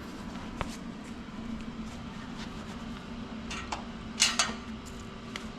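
Steady machine hum with a few light knocks and a short, louder clatter about four seconds in.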